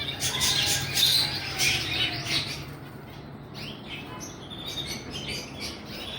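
Many caged birds chirping and squawking together, short overlapping high calls, loudest in the first couple of seconds.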